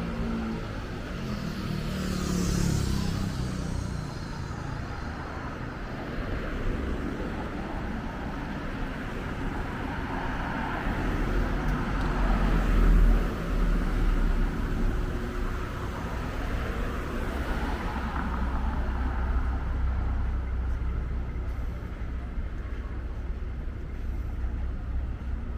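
City street traffic: cars and other vehicles passing with engine and tyre noise, a louder low rumble of a heavier vehicle going by about halfway through.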